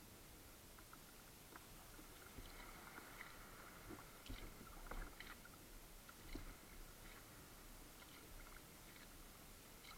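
Faint sounds of a kayak being paddled: scattered soft splashes, drips and clicks, a little louder around the middle.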